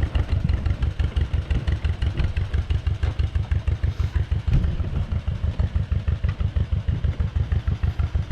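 John Deere two-cylinder tractor engine idling with its steady, rapid put-put beat.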